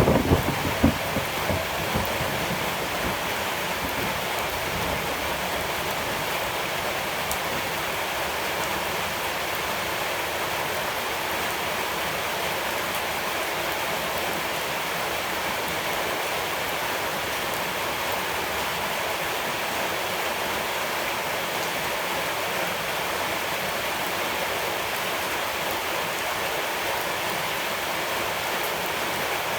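Steady rain falling, an even hiss with no change. In the first two seconds a few loud low thumps die away, the tail end of thunder.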